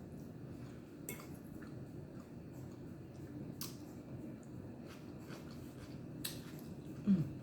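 Quiet eating sounds: a few short sharp clicks and soft squishy handling of crab and food, with a brief hummed "mm" near the end.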